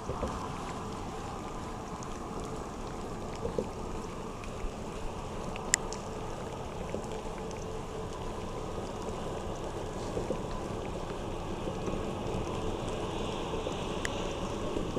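Heavy rain falling on the lake and the boat: a steady, even hiss, with a few sharp ticks scattered through it.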